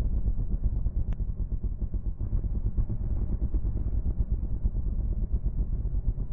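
Dirt bike running, a steady low rumble.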